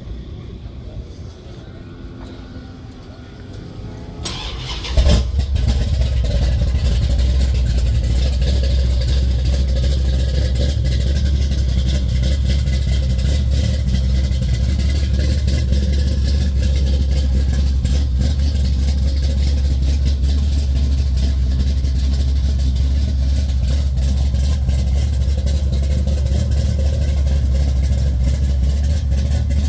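A car engine starts about five seconds in and then runs at a steady idle with a loud, low rumble.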